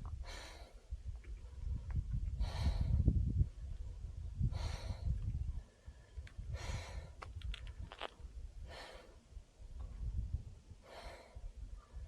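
A man breathing heavily and steadily, one breath about every two seconds, with a low rumble underneath that is loudest in the first few seconds.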